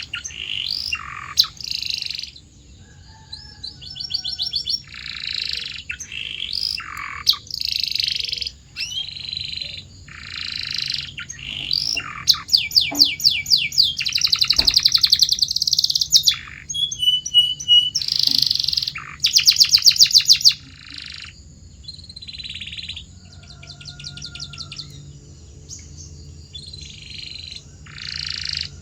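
Canary singing a long, varied song: buzzy notes, whistles and fast rolling trills, broken by short pauses between phrases.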